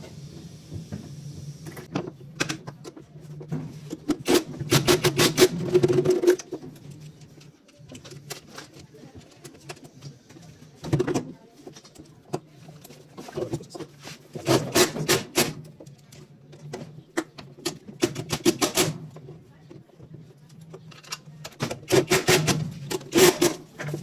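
Short runs of rapid metallic clicking from tool work on a Whirlpool washing machine, repeated about five times, over a low steady hum.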